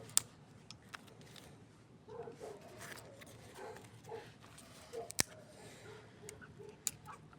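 Wood campfire crackling, with a few sharp pops, the loudest near the start and about five seconds in.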